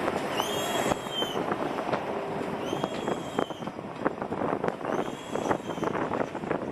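Railway wagon wheels squealing in a high tone that swells and fades about every two seconds, over the dense rattle and clicking of wheels running on the track.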